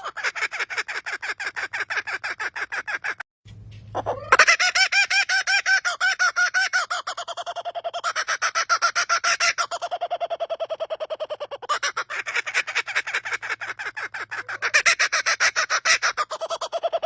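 A bird giving a rapid, laughing call: long bouts of quick, evenly repeated notes, about ten a second. The calling breaks off briefly about three seconds in and starts again with a rising note.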